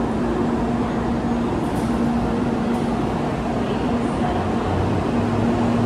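N700-series Shinkansen train starting off from the platform and slowly gathering speed, a steady hum over an even running rumble that grows slightly louder near the end.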